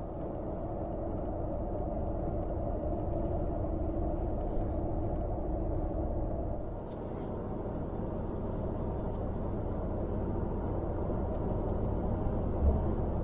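A vehicle driving: a steady low rumble of engine and road noise with a faint even drone.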